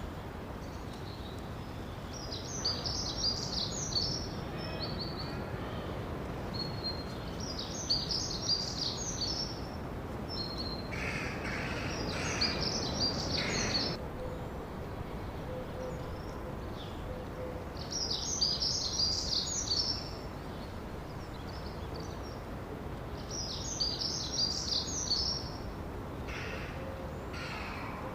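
A songbird singing the same bright, high, trilling phrase over and over, about every five seconds, over a steady background hiss, with a few lower, harsher calls from another bird in between.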